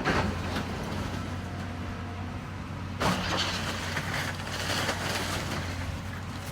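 Heavy demolition machine's diesel engine running steadily, with two crashes of the building being torn down, one right at the start and another about three seconds in.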